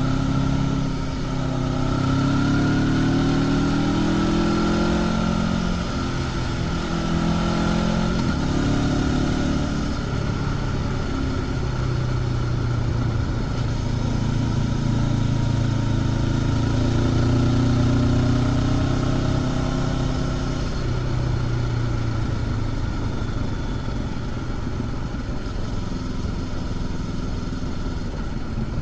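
Honda CB500X's parallel-twin engine with stock exhaust, ridden on a winding road. Its pitch climbs over the first few seconds, drops, then climbs again for a long stretch before falling away about two-thirds of the way through.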